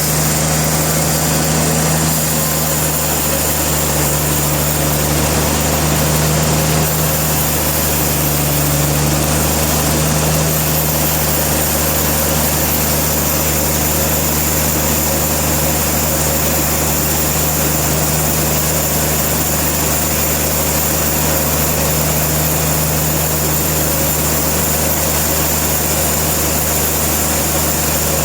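Sawmill engine running steadily at a constant speed, a loud, even drone with no change.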